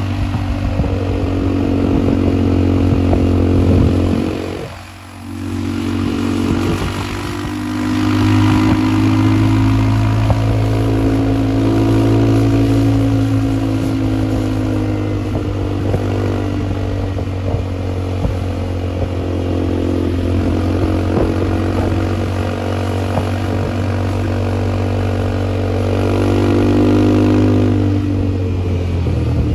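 ATV engine running under way, its pitch rising and falling with the throttle. It eases off briefly about five seconds in, then picks up again.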